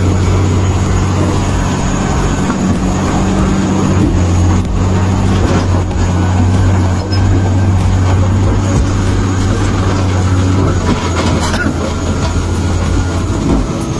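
Heavy diesel machinery running under load: a steady, loud low engine drone with metallic clanking and squealing over it.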